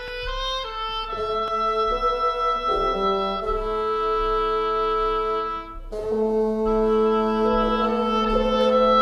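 Wind instruments playing an instrumental passage in several parts with held notes, with no voice. The notes break off briefly a little past the middle, then a new held chord comes in.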